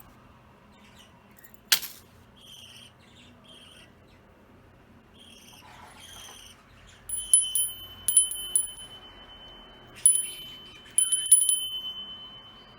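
Budgerigars playing with a metal chain toy: it jingles and rings in several sharp clusters through the second half. Soft budgie chirps and a single click come before it.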